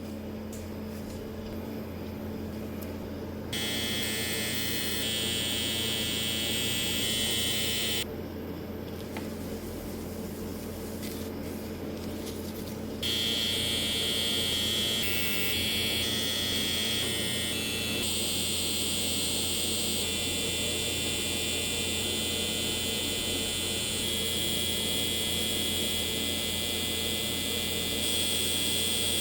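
Electric tattoo machine buzzing with a steady high whine over a low hum. It starts a few seconds in, stops for about five seconds, then runs on.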